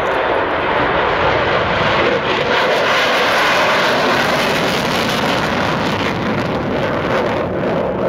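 F-35 Lightning II's single F135 jet engine at full afterburner during takeoff: a loud, steady jet roar that swells slightly around the middle.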